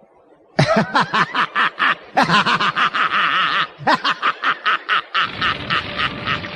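A man laughing in triumph: a long run of rapid, evenly repeated ha-ha pulses, several a second, starting about half a second in.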